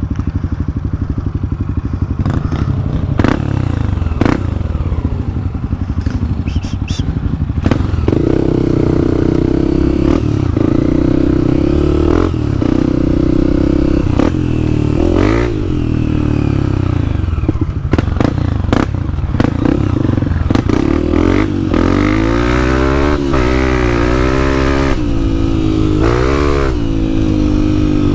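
Dirt bike engine running while riding a trail, its pitch rising and falling with the throttle and gear changes, with occasional knocks and rattles from the bike over rough ground.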